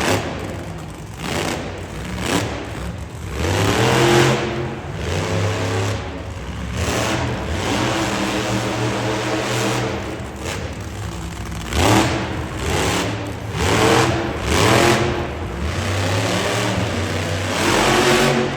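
Monster truck engine revving hard in repeated throttle bursts, its pitch sweeping up several times, with loud noisy surges between them.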